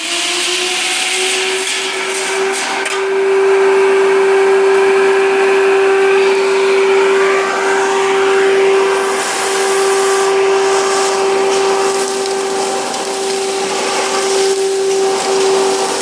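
Shmel grain crusher running with a steady, loud motor whine, working as a vacuum cleaner, with a few short knocks along the way.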